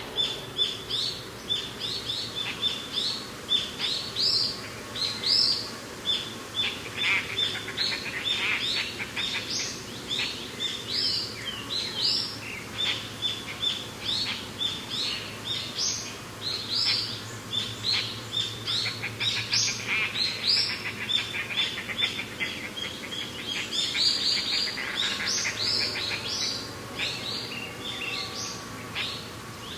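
A dense chorus of many birds chirping and calling at once: short high notes overlapping without a break.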